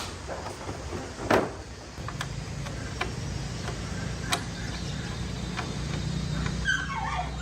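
Small motorbike engine catching about two seconds in and then idling steadily, after a few clicks and a knock.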